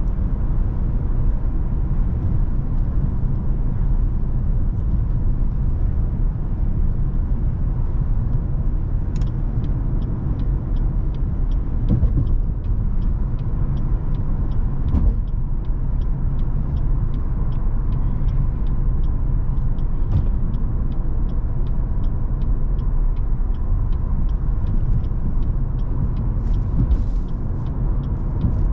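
Cadillac CTS with the 3.6-litre twin-turbo V6 driving, heard from inside the cabin: a steady low rumble of engine and road noise. A light, regular ticking joins about a third of the way in, with a couple of small bumps near the middle.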